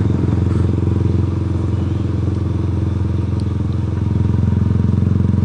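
Yamaha Byson's air-cooled single-cylinder four-stroke engine running steadily while the motorcycle cruises, heard from on the bike.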